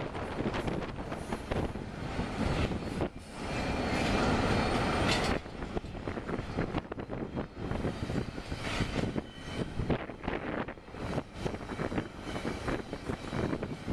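Double-stack intermodal container train rolling by and moving away around a curve, its wheels and cars giving a continuous rumble. Gusty wind on the microphone makes the level surge unevenly, loudest about four seconds in.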